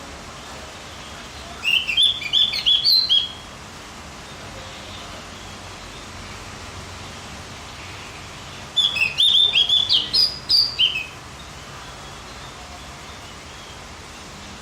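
A songbird sings two short bursts of quick, high chirping notes, one about two seconds in and one about nine seconds in, with a steady hiss between them.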